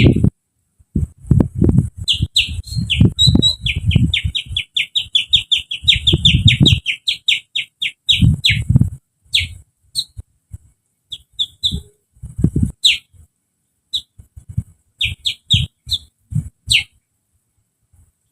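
A man imitating a sooty-headed bulbul's song by whistling through his fingers. It is a quick run of short chirps, about five a second, from about two seconds in to about nine, then scattered single and paired chirps. Low puffs of breath blown through the hands run under the chirps.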